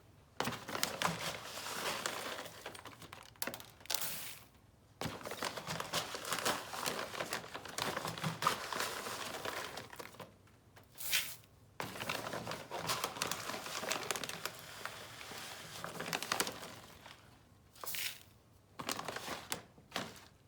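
Dry birdseed being scooped and poured for measuring, a dense grainy rattle of seeds with crinkling, in several spells separated by short pauses.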